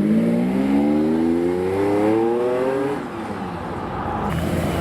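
Supercar engine accelerating hard, its note climbing steadily in pitch for about three seconds, then falling away and quieter as the car pulls off.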